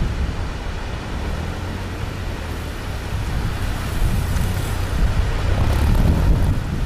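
Honda CB1100's air-cooled inline-four running at low revs through slow turns, swelling louder near the end, with gusty wind buffeting the microphone.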